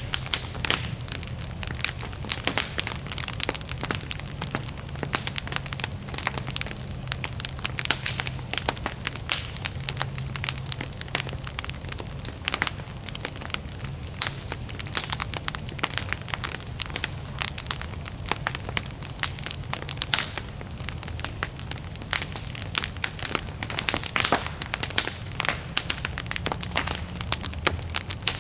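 Wood bonfire crackling and popping continuously, with many irregular sharp snaps over a low steady rumble of the flames.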